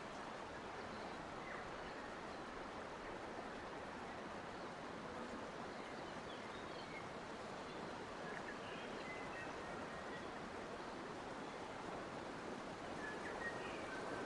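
Steady rush of flowing water, like a forest stream, with faint, brief bird chirps now and then.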